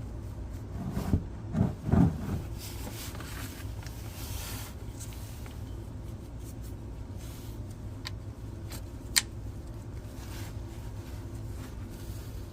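Handling noises under the car as the oil pan is set in place and the drain plug is worked off with a tool: a couple of dull thumps about one to two seconds in, then faint scattered clicks and one sharp click about nine seconds in.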